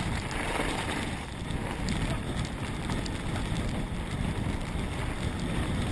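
Wind buffeting the microphone with the rumble and rattle of a mountain bike riding fast down a rough trail, with scattered sharp clicks and knocks from the bike.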